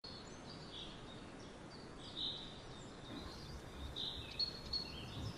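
Birds chirping faintly over quiet outdoor background noise, with a few soft low bumps near the end.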